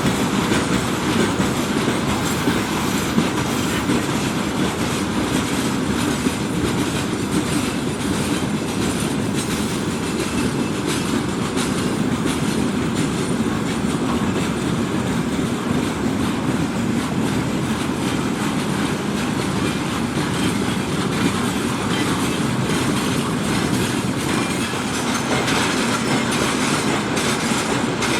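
Freight train rolling steadily past, its wheels clicking over the rail joints.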